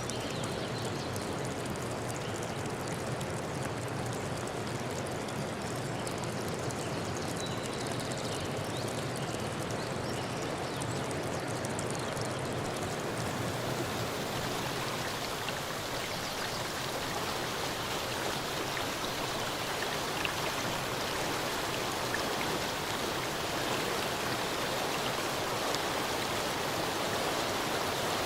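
Steady rushing of running water, an even hiss with no pauses. About halfway through it turns brighter and hissier, and it grows a little louder near the end.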